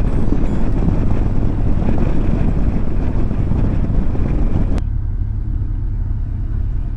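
Motorcycle on the move: a steady low engine hum under a rush of wind over the microphone. About five seconds in, the wind rush cuts off suddenly, leaving the quieter engine hum.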